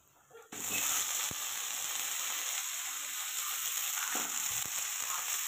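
Steady sizzle of frying in hot oil in a kadai, where onions, garlic and cumin have browned and drumstick pieces are being added. It starts abruptly about half a second in.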